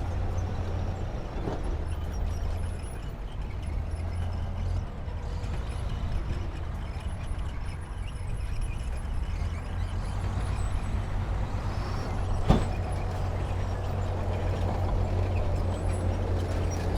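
Heavy diesel earthmoving machinery running steadily with a deep, low engine drone, with one sharp bang about twelve seconds in.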